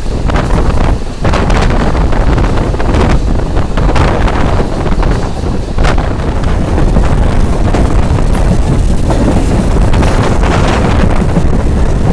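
Heavy wind buffeting the microphone from a moving passenger train, over the train's steady running rumble, with occasional brief clatters.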